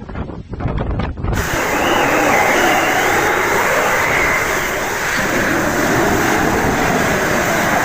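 Steady, loud rush of storm wind and heavy rain, after a cut about a second in from a briefer, muffled gusty stretch.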